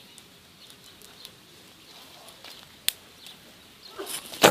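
Twigs and dry bark being handled at a small kindling fire: sparse faint clicks, one sharp snap about three seconds in, and a cluster of louder snaps and crackles near the end.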